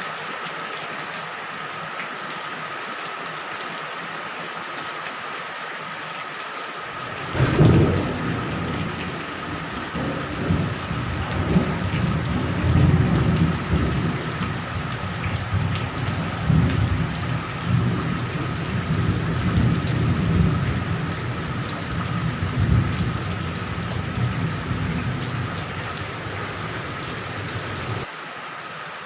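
Steady heavy rain. About seven seconds in, a thunderclap cracks and then rumbles on in rolling waves for some twenty seconds, dropping off abruptly near the end.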